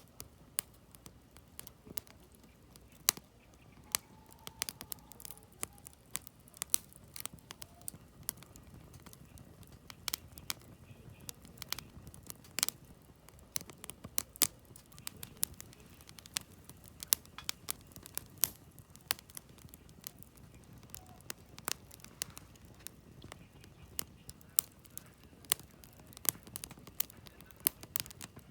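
Wood campfire crackling and popping: irregular sharp snaps, several a second at times, over a soft low rumble of the burning logs.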